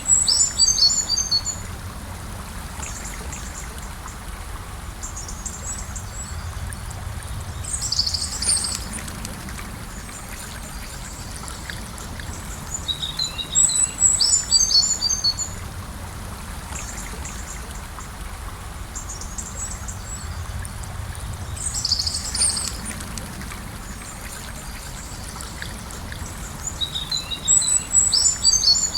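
Gentle river flowing with a steady rush, while a songbird sings a short, high phrase of quick chirps about every seven seconds, five times in all.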